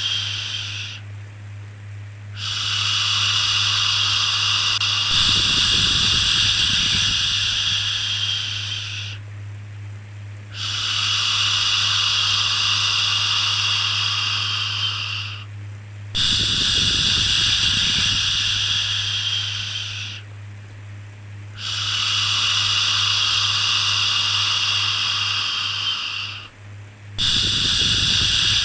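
Shushing "shhh" sounds, each held for about five seconds with a brief pause between, five in all, over a steady low hum.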